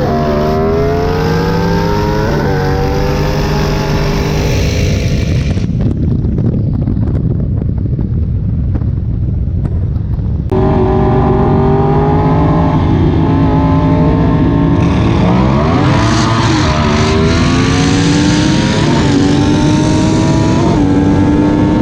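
High-powered street cars accelerating hard at full throttle, the engine note climbing and then dropping sharply at each gear shift. For a few seconds around the middle the sound turns duller and rougher, then a long steady climb runs into the end.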